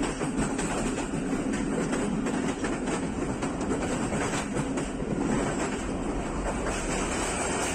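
Passenger train coaches running along the track, heard from on board: continuous running noise with frequent sharp clicks from the wheels on the rails.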